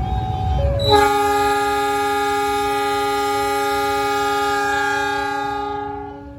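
A CC 206 diesel locomotive's horn sounds one long, loud blast that starts about a second in and fades out near the end. Underneath, a two-pitch warning tone keeps alternating, and before the horn the train rumbles low.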